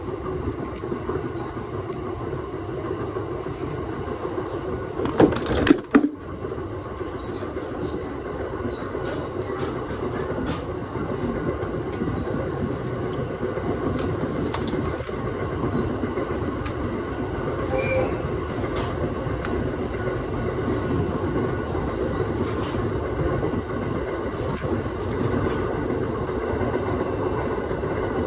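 Aoimori Railway 701 series electric train running steadily on the line, a continuous rumble of wheels and running gear heard from inside the car. A couple of sharp, loud knocks come about five to six seconds in.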